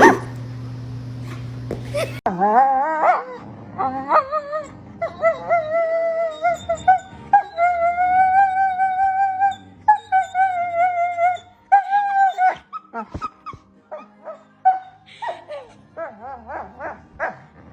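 A dog yelps sharply once at the start. Then, in a new clip, a dog howls in long, wavering, drawn-out notes that break into shorter whining calls near the end.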